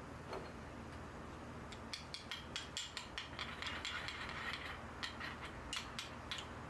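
A quick, uneven run of sharp mechanical clicks, a few a second, starting about two seconds in and stopping shortly before the end.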